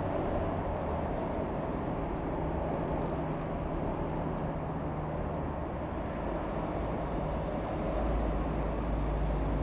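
The four-cylinder Lycoming O-320 piston engine of a Cessna F172N Skyhawk running steadily, a low drone. The low rumble grows stronger near the end.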